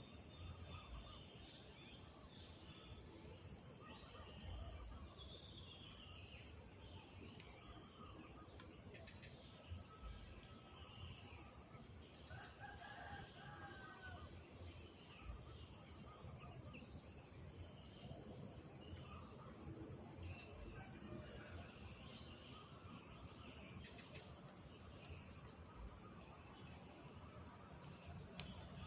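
Faint rural morning ambience: a steady high chorus of insects with scattered bird chirps, and a rooster crowing once about halfway through.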